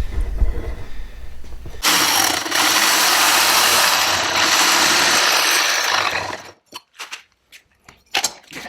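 A power tool runs steadily for about five seconds, starting about two seconds in, then stops abruptly. A few sharp clicks follow.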